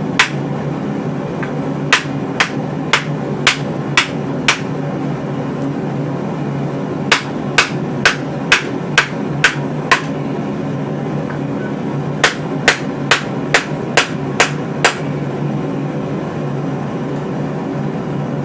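Hand hammer striking hot steel on an anvil during rough forging, in three runs of six or seven blows at about two a second with short pauses between, over a steady low hum. The blows stop a few seconds before the end.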